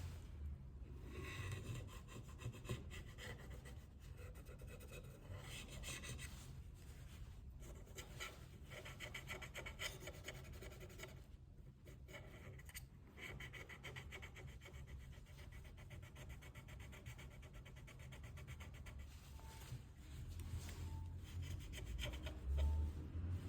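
Small hand tool scraping and rubbing against a smartphone's parts during a battery replacement, a run of fine rasping strokes with brief pauses.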